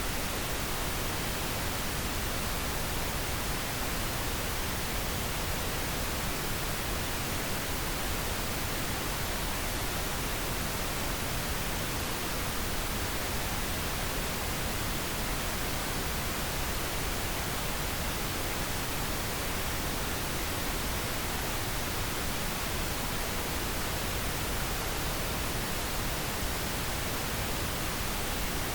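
Steady pink noise: an even, unchanging hiss across the whole range, played as a sleep aid.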